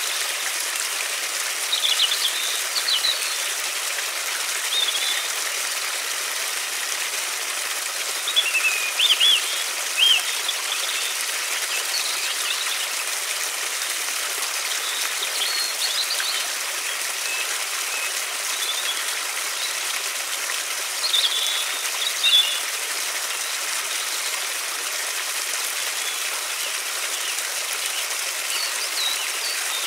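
Steady rush of flowing river water. Songbirds chirp on and off over it, in short scattered phrases.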